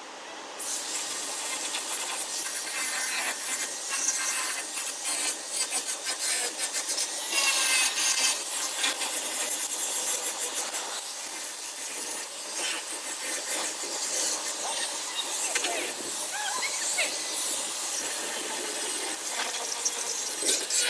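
Continuous rough rasping and scraping of tool work on a truck cab's sheet-metal panel, setting in about half a second in and cutting off abruptly at the end.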